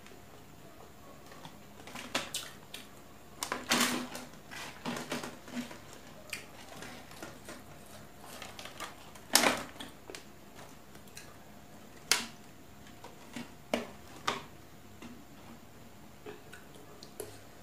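Close-up mukbang eating sounds: chewing and lip-smacking, heard as irregular wet clicks and smacks. The loudest comes about nine seconds in.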